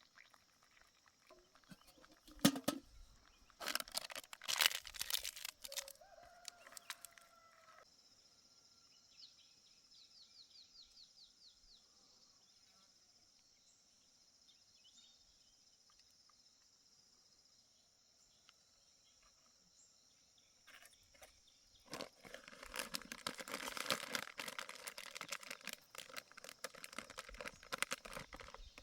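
Rustling and crinkling of things being handled, in a few short bursts early on and more steadily over the last seven seconds, over a steady high-pitched hum. A bird gives a quick run of chirps midway.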